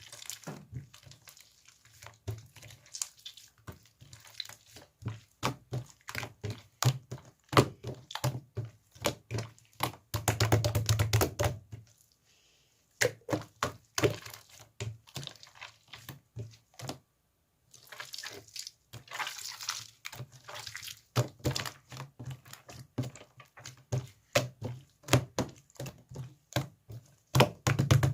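Slime being squished and pressed by hand, making a long run of small wet clicks and pops, with bursts of rapid popping about ten seconds in and again near the end.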